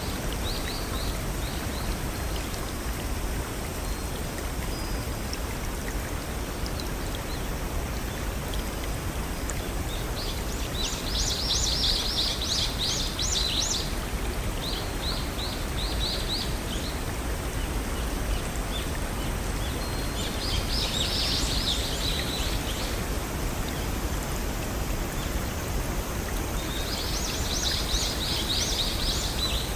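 Steady rush of a small stream or waterfall, with a songbird singing short phrases of quick, high notes four times over it.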